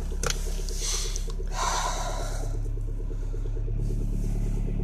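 Honda car engine running steadily just after a cold start in severe frost, a fast even pulse over a low drone. A few short hissy rustles come near the start and again about one and two seconds in.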